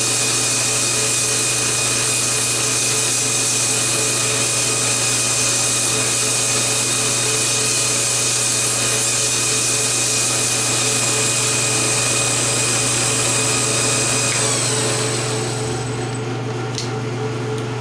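Belt grinder running a 1x72 scalloped 320-grit sanding belt against a wooden knife handle, a steady whirring grind. About 14 seconds in the motor is switched off and its pitch slides down as the belt coasts to a stop, with a single click near the end.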